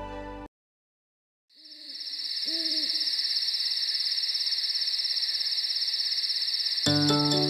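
Night-time sound effect: a steady, fast-pulsing high chirr of crickets, with two short owl hoots about two seconds in. Music comes in near the end.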